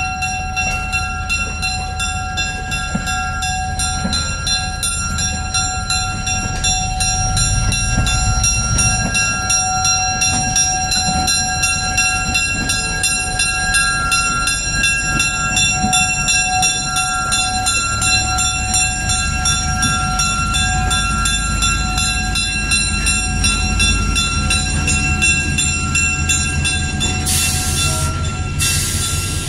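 Railway locomotive running close by: a steady low rumble under a constant whine of several tones, growing somewhat louder about seven seconds in. Two short bursts of air hiss come near the end.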